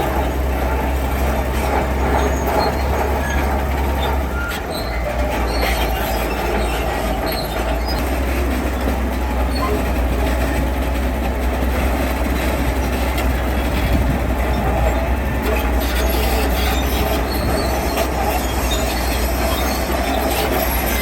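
Heavy diesel construction machinery running steadily, a strong low engine hum under a noisy grinding layer; the engine note shifts slightly about four and a half seconds in.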